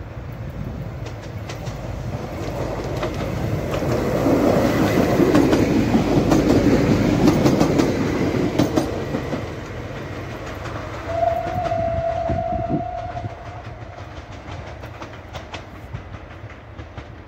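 Passenger train passing at speed, its wheels clacking over rail joints. The noise builds as it approaches, is loudest about four to eight seconds in, then fades as the train moves away. About eleven seconds in, a train horn sounds one steady note for about a second and a half.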